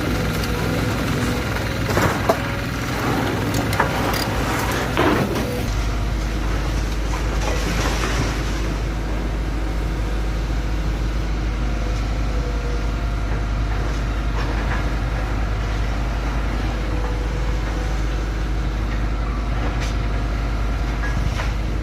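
An engine running steadily, with several sharp knocks in the first five seconds.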